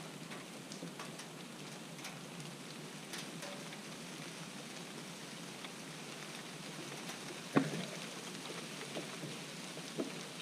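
Hand tool working a bolt loose on a mini excavator's joystick control, heard as a few light clicks over a steady hiss, with one sharp click about seven and a half seconds in.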